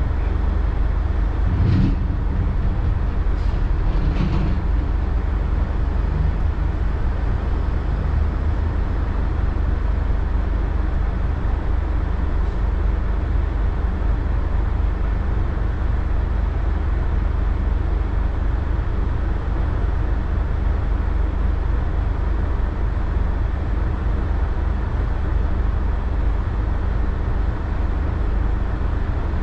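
Steady low engine rumble of a running vehicle, with a couple of faint brief sounds in the first few seconds.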